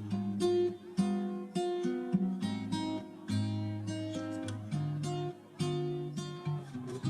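Background music played on acoustic guitar: plucked notes and chords at an easy, steady pace.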